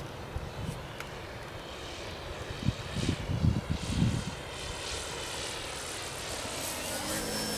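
Electric motor and propeller of a 2.7 m Extra 330LX model aerobatic plane in flight, a faint whine that rises in pitch near the end. Gusts of wind buffet the microphone in the middle.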